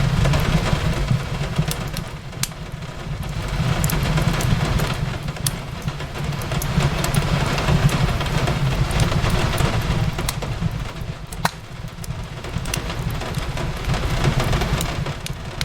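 Steady rain with a low rumble underneath, rising and falling slowly in level, mixed with a wood fire crackling in scattered sharp pops.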